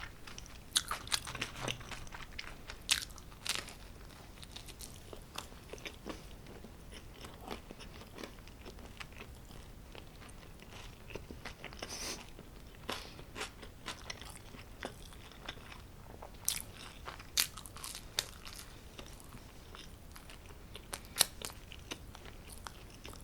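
Close-miked eating of homemade pizza: bites into the crust and chewing, with scattered short crisp crunches and mouth clicks.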